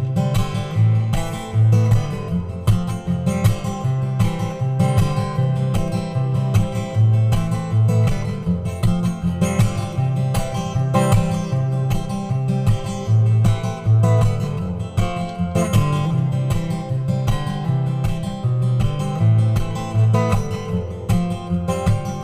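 Acoustic guitar strummed steadily with no singing, played through a reverb pedal.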